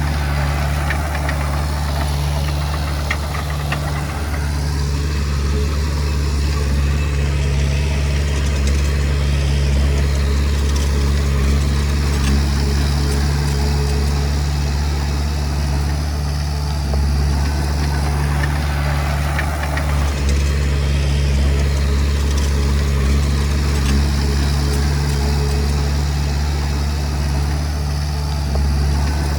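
Komatsu D20P bulldozer's diesel engine running steadily.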